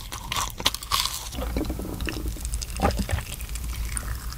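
Close-up crunching and chewing of a mouthful of battered, deep-fried mudfish (loach). The crunches are densest for about the first second, then thin out to quieter, scattered chewing.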